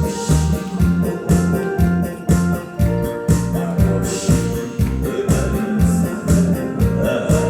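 Electronic keyboard playing organ-like instrumental music over a steady beat and bass line, with no singing.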